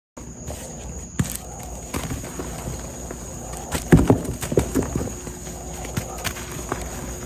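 Reformed gym chalk blocks soaked in baby oil being crushed and crumbled, giving scattered crunches and clicks, with a denser run of soft thuds a little past the middle.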